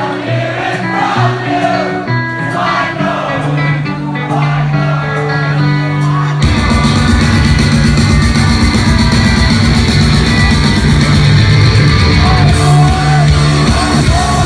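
Live rock band playing with a male singer: vocals over held guitar and bass chords, then about six seconds in the full band crashes in with loud drums and distorted guitar, and the singing continues over it.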